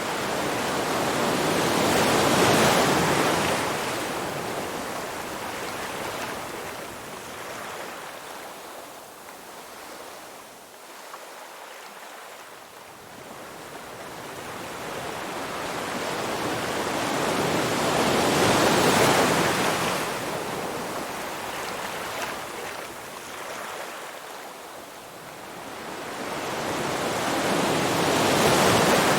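Ocean surf: waves rush in and wash back, the hiss swelling and fading three times, about two seconds in, about two-thirds of the way through, and again at the end.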